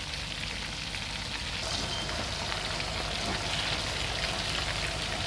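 Breaded chicken strips deep-frying in hot oil: a steady sizzle with fine crackling.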